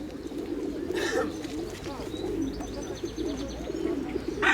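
Many domestic pigeons cooing at once in a continuous, overlapping chorus. A few faint higher chirps are heard above it.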